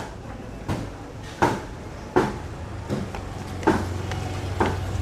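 A steady series of sharp knocks, about one every three-quarters of a second, with a low motor hum coming in about three seconds in.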